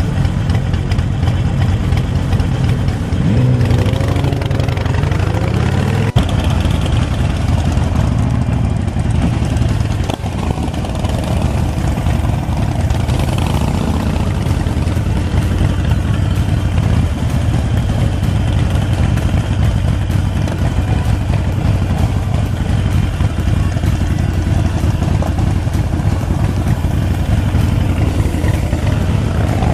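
Harley-Davidson 48 Sportster's air-cooled V-twin running under way, its revs rising and falling a few times, with wind noise over the microphone.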